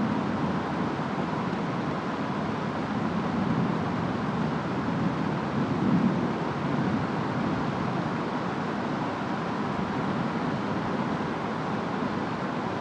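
Steady rainstorm noise with wind, and a low rumble that swells briefly about six seconds in.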